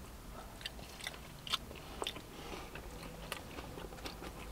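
Close-miked biting into and chewing a fried chicken tender dipped in sauce, with irregular crisp crackles from the breading; the sharpest crunch comes about a second and a half in.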